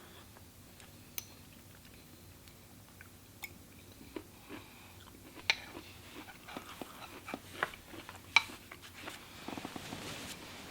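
Someone quietly chewing a mouthful of pheasant noodle soup, with scattered faint clicks and taps.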